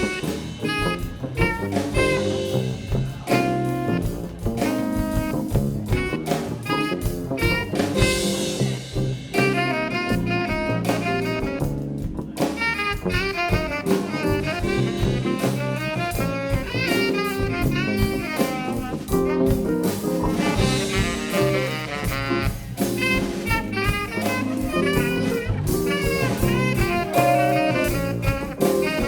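Live band playing jazz-style music over a steady drum-kit beat.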